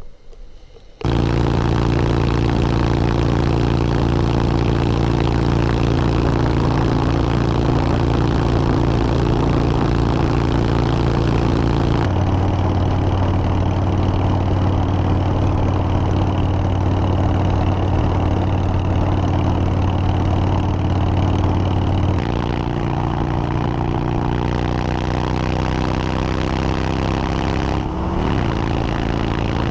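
Motorcycle engine running steadily at road speed under a broad rush of wind and road noise. It comes in abruptly about a second in, and its pitch steps to new steady levels twice, about a third and about three quarters of the way through.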